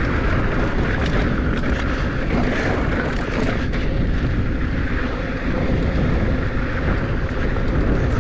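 Mountain bike descending a dirt trail at speed: a steady rush of wind on the microphone and tyre noise on hard-packed dirt and sand, with short rattles and clicks from the bike over rough ground.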